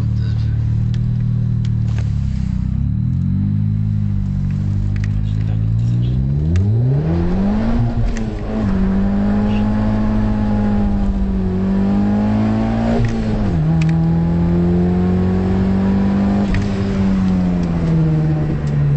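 Nissan 200SX S13's 1.8-litre turbo four-cylinder (CA18DET) accelerating hard, heard from inside the cabin. The revs climb steeply from about three seconds in, dip briefly, then hold high near the redline before dropping in two steps in the last third.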